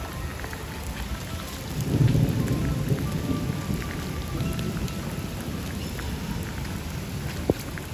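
Heavy rain falling steadily on wet pavement and grass, with a low rumble swelling about two seconds in. A single sharp knock comes near the end.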